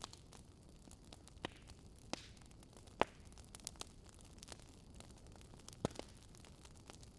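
Wood fire crackling: irregular sharp pops and snaps over a faint steady hiss, the loudest snap about three seconds in.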